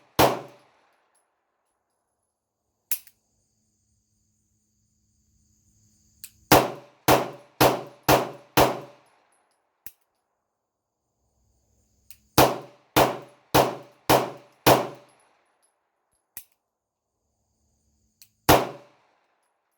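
9mm pistol shots with 115-grain FMJ ammunition. There is a single shot at the start, then two quick strings of five shots about half a second apart, and one last shot near the end, with faint clicks in the pauses between strings.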